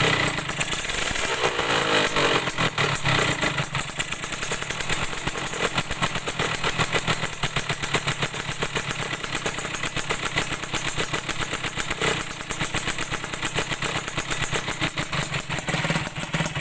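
Suzuki Satria two-stroke single-cylinder motorcycle engine running through an AHAU under-slung aftermarket exhaust, with a fast stream of exhaust pulses. The revs rise and fall in the first few seconds, then hold steady.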